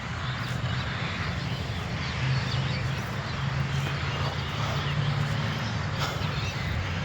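A steady low engine-like hum, a little louder from about two seconds in, over faint outdoor background noise.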